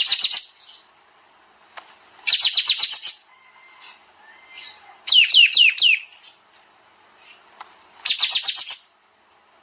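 Kapas tembak songbird singing in short, rapid bursts of sharp, high repeated notes about every two and a half seconds, one phrase in the middle made of four quick down-slurred whistles.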